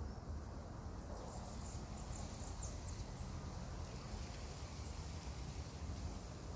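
A few short, high-pitched animal chirps between about one and three seconds in, over a steady low rumble.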